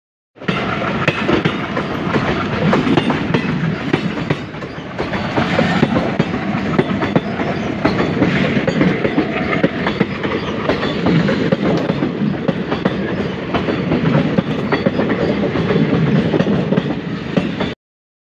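Passenger train coaches rolling past close by, steel wheels clattering rhythmically over the rail joints. The sound starts about half a second in and cuts off abruptly near the end.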